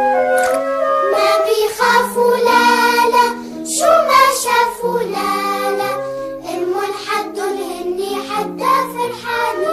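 Children's song: a high, childlike singing voice moves through short held notes over bright instrumental backing.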